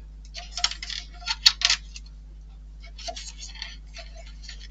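Small hard parts clicking and clattering as they are handled, in two quick clusters of light clicks over a faint steady hum.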